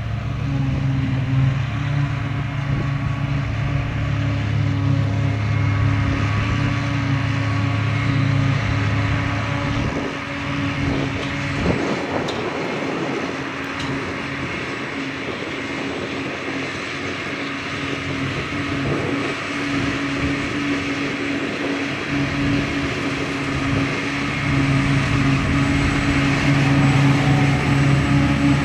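Diesel engine of a farm machine running steadily under work, its low hum fading somewhat in the middle and growing louder again near the end.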